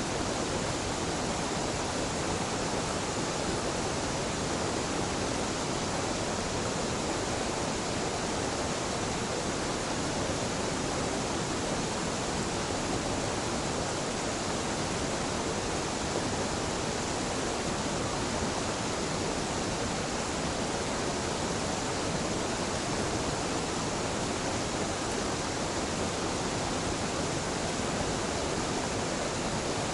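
Waterfall on a mountain stream, the falling water making a steady, even rush of noise.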